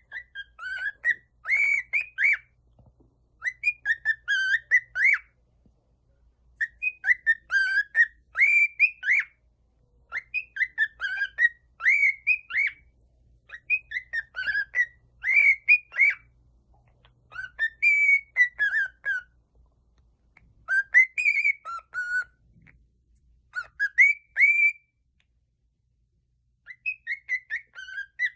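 Cockatiel whistling: short phrases of rising and falling whistled notes, repeated in bursts every two or three seconds, with a pause of a few seconds near the end.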